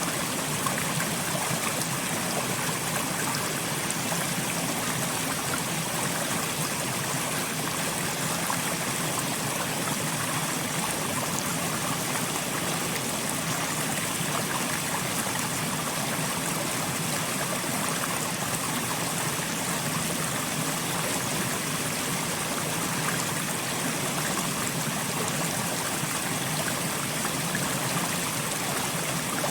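Soft rain falling steadily, an even hiss of many small drops with no change in strength.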